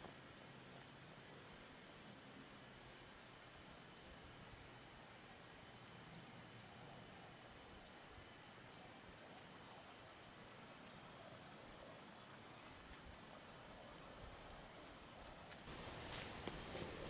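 Prenjak (prinia) calls played from a bird-trapping lure speaker: fast, very high chirping trills repeated in short bursts about once a second. Near the end they become louder and a little lower. Faint short whistled notes come before them.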